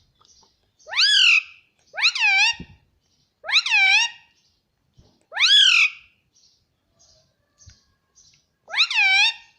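Indian ringneck parakeet calling loudly five times, each call a short cry that rises and then falls in pitch, with faint chirps between them.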